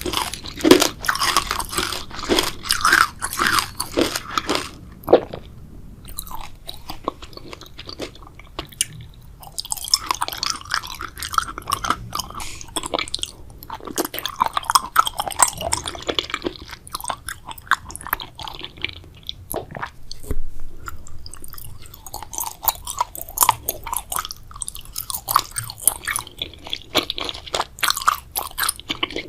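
Close-miked chewing and biting of a grape jelly dessert, with crunchy, crackly bites and wet chewing, easing off for a few seconds partway through.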